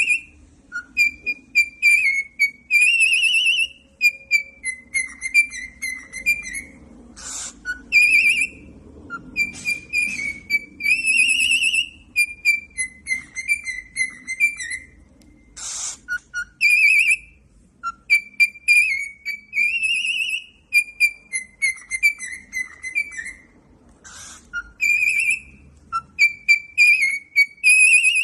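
Cockatiel whistling a warbling, repeating tune of gliding notes, the phrase coming round about every eight seconds, with a short harsh rasp between some of the repeats.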